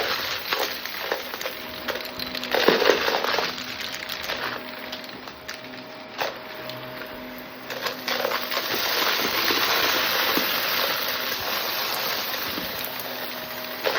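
Shark vacuum cleaner running with a steady motor hum while bits of debris crackle and rattle as they are sucked up.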